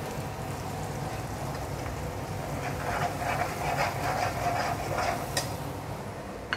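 Onion-and-spice masala sizzling in oil in a black wok. In the middle a steel ladle stirs and scrapes through it in a run of strokes, and near the end there is a sharp clink of the ladle against the pan.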